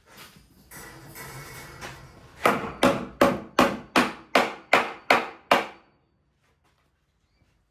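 Hammer striking timber nine times in a steady rhythm, about three blows a second, after a second or so of rustling.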